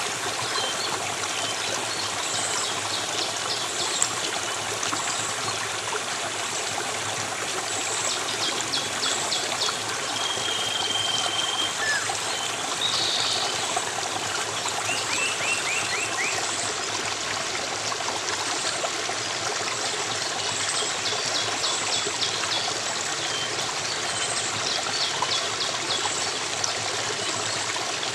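Running water of a stream flowing steadily, with small birds chirping and giving short high trills several times over it.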